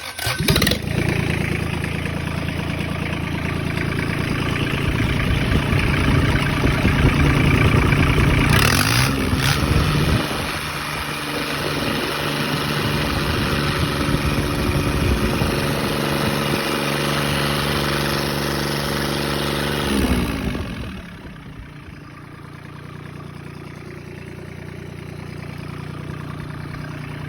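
ISEKI E3CD three-cylinder diesel engine being test-started: it catches at once and runs with a steady diesel clatter, getting louder over the first several seconds. About twenty seconds in its speed falls and it carries on running more quietly at a lower idle.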